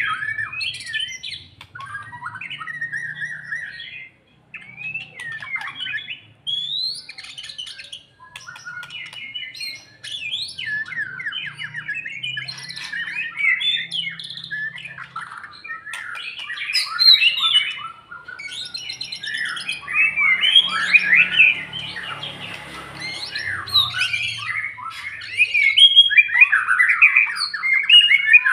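White-rumped shama (murai batu) singing a fast, varied run of whistles and harsh chattering notes, growing louder and denser in the second half. The singing is that of a bird coming back into its fighting song after its moult.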